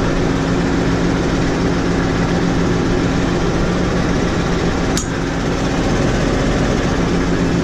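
Tractor engine idling steadily, with one sharp metallic click about five seconds in.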